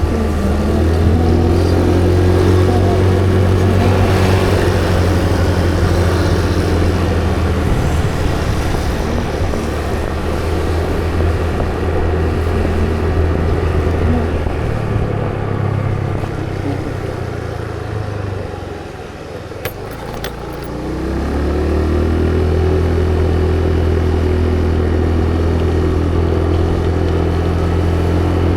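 Motorcycle engine running steadily while riding. About two-thirds through it eases off and drops in pitch, a few short clicks come near the low point, and then it picks up again with a rising pitch as the bike accelerates.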